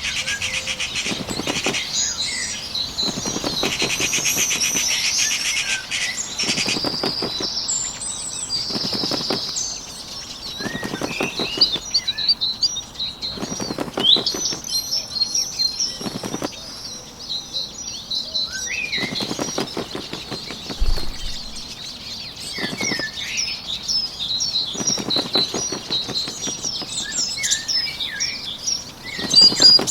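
Bird sound effects: short spells of flapping wings about every two seconds, over many small birds chirping and twittering.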